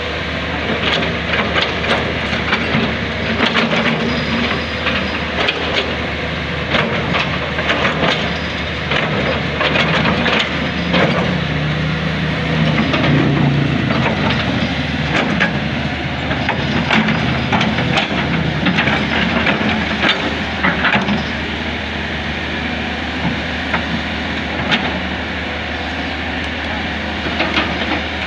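Excavator at work: its diesel engine running steadily, with repeated clanks and knocks from the bucket and arm scraping rock and earth through the first two-thirds, and the engine note rising and falling under load for a few seconds midway.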